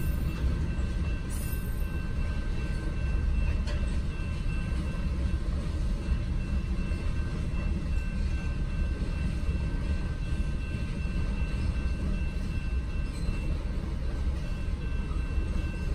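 Freight train of hopper cars rolling steadily through a level crossing: a continuous low rumble of wheels on rail, heard muffled from inside a stopped car.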